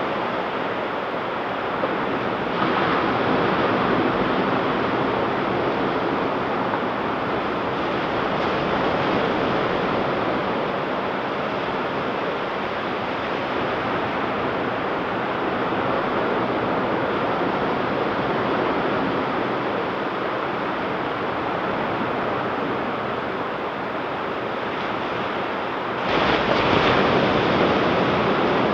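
Ocean surf washing onto the beach in a continuous rushing, with a louder wave breaking a few seconds in and another near the end.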